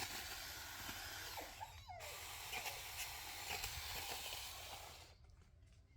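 Power tool running steadily as vegetation is cut, with a momentary break about two seconds in; it dies away about five seconds in.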